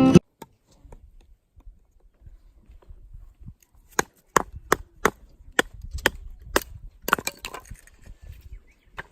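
Firewood cracking and knocking: a run of sharp wooden cracks, about two a second, starting about four seconds in after a few quiet seconds, as wood is broken and handled for a campfire.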